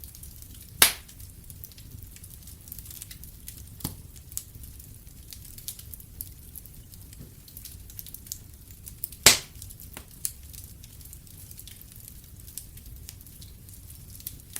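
Wood fire in a fireplace crackling, a steady scatter of small sharp ticks, with two loud pops, one about a second in and one about nine seconds in.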